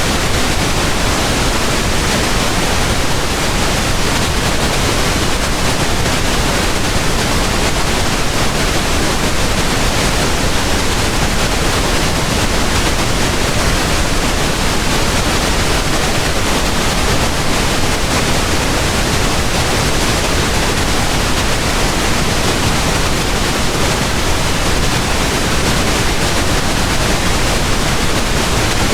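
Pink noise: a steady, even hiss with no changes or events.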